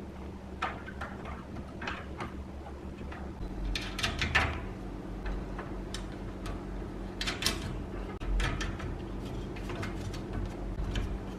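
Irregular light clicks and knocks over a steady low hum.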